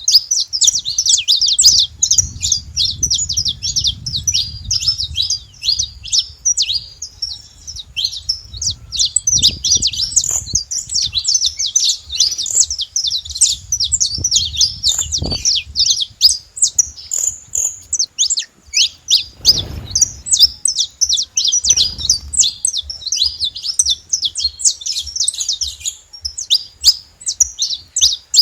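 Saffron finches singing: a dense, continuous stream of rapid high chirps and twitters, with a low rumble underneath at times.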